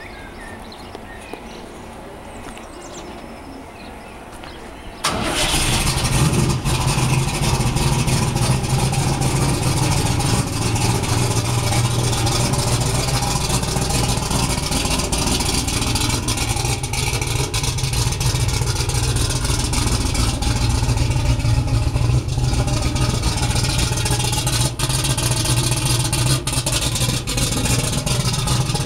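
Rover V8 engine of a Manta drag car starts up abruptly about five seconds in, then runs loud and steady.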